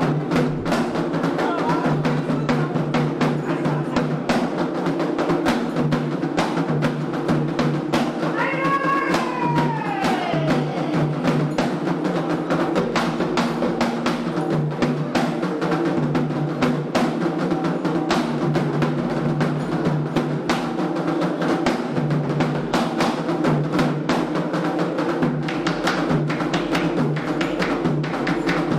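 Candomblé ritual drumming: hand drums struck in a steady, continuous rhythm. About eight seconds in, a short high call falls in pitch.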